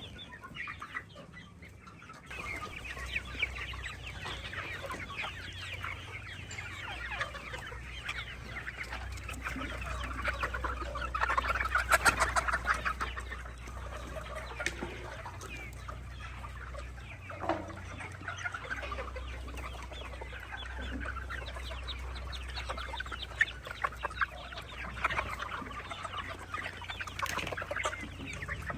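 A flock of baby chicks peeping, many short high chirps overlapping, busiest and loudest around the middle. A steady low hum runs underneath from about two seconds in.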